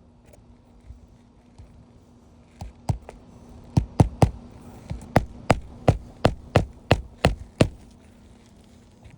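Hammer striking roofing nails into an asphalt shingle: a run of about fourteen sharp strikes, roughly three a second, starting a few seconds in and stopping near the end.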